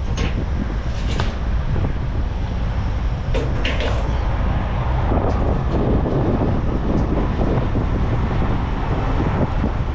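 Steady low rumble of idling diesel truck engines at a fuel island, with a few sharp clicks and knocks.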